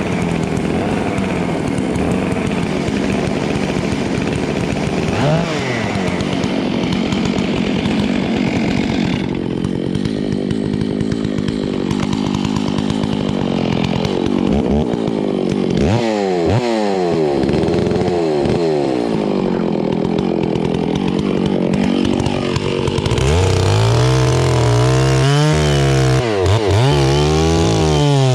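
Chainsaw cutting into a hollow, rotten tree trunk under load. From about halfway the engine pitch rises and falls, and near the end it revs up and down repeatedly.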